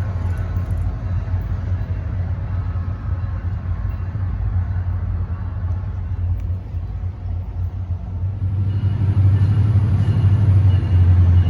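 Steady low vehicle rumble that grows louder about eight and a half seconds in.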